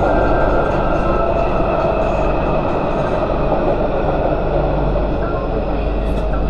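MTR Q-train electric multiple unit running on the Tsuen Wan line, heard from inside the car: a steady rumble of wheels on track with a faint, even motor whine.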